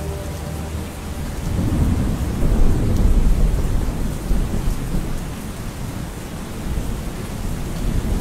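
Steady rain with a low rolling rumble of thunder that swells about two seconds in, then eases off.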